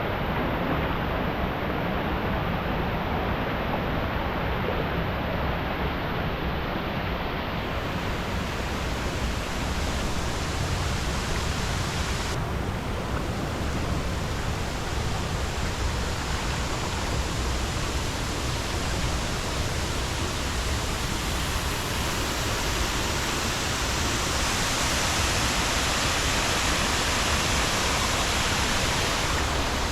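Steady rush of falling water from a waterfall. The hiss gets brighter about eight seconds in and again about twelve seconds in.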